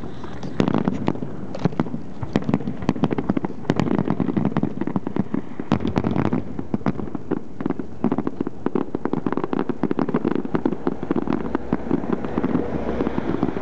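Aerial fireworks going off in a dense, continuous barrage of sharp bangs and crackling pops, many overlapping at an irregular rapid pace.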